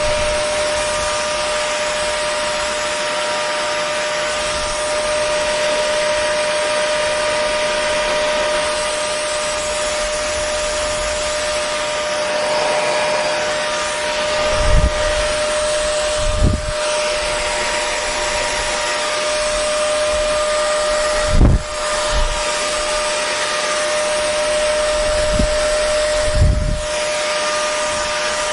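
Hair dryer running steadily: a constant rush of blown air with a steady motor whine. A few short low thumps, like air buffeting the microphone, come in the second half.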